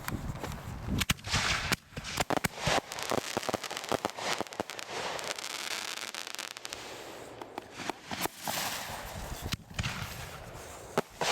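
Fireworks going off: a rapid, irregular string of sharp pops and bangs, with stretches of crackling hiss.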